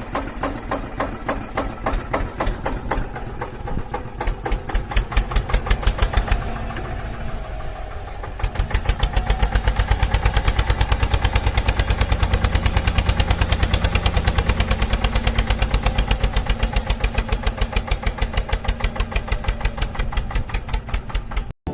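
An engine running with a regular knocking chug, about five beats a second at first. After a softer patch about six to eight seconds in, it runs faster and louder at a steady beat.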